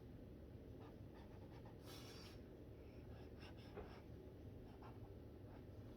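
Faint scratching of a dual brush pen colouring on paper, in short strokes over low room hum, with one brief louder scratch about two seconds in.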